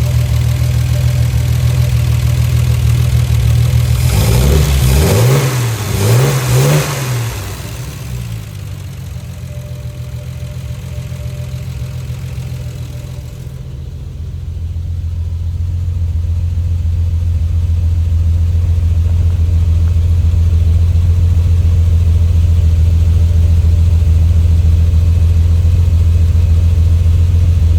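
1973 Triumph TR6's straight-six engine running: a steady idle, revved up and back down twice about four to seven seconds in, then settling into a steady idle again.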